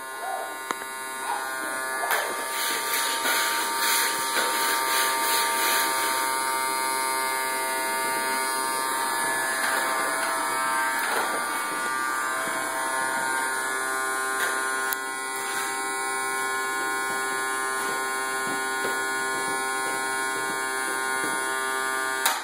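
Vacuum cleaner motor running with a steady whine, surging a little in the first few seconds and cutting off at the very end.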